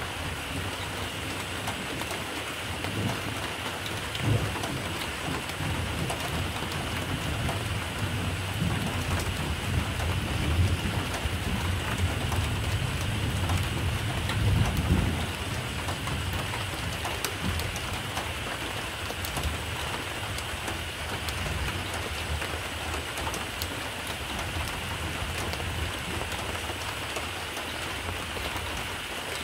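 Steady rain, with a low rumble of thunder that swells and fades over the first half.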